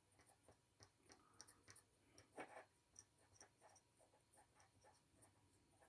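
Near silence with faint, scattered small taps and light scraping, typical of a jar of yellow craft paint being stirred.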